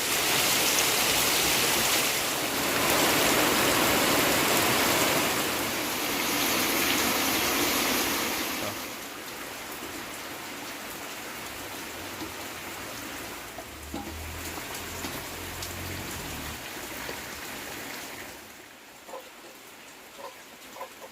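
Heavy rain falling steadily, loudest for about the first nine seconds, then quieter.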